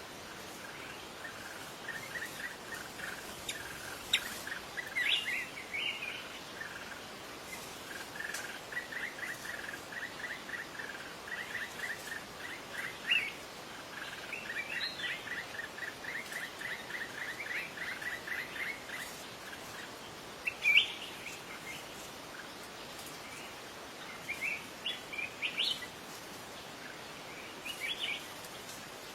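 Wild birds singing: long runs of quick repeated notes, with sharper, higher chirps breaking in now and then, the loudest about two-thirds of the way through. A steady outdoor hiss lies underneath.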